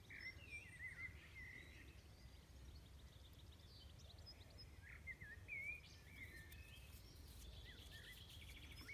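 Faint birds chirping outdoors: short high calls scattered throughout, with a quick trill near the end, over a low steady rumble.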